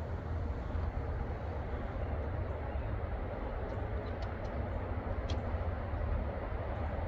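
Steady rumble and hiss of highway traffic, with a few faint clicks around the middle.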